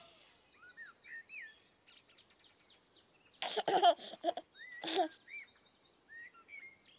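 Birds chirping in short, rising and falling calls, with a few short giggle-like bursts about three and a half and five seconds in.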